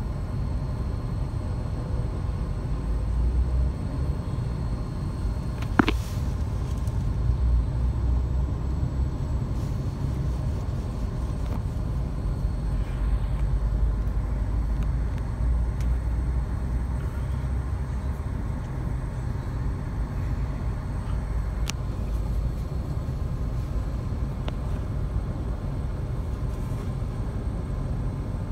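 Steady low rumble of a freight train rolling through a grade crossing, heard from inside a stopped car's cabin, swelling and easing as the cars pass. A single sharp click about six seconds in.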